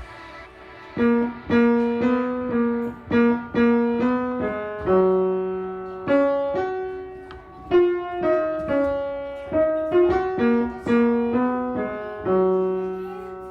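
Piano playing a slow, simple tune: single notes and pairs struck one after another, about two a second with some held longer, each starting sharply and fading away.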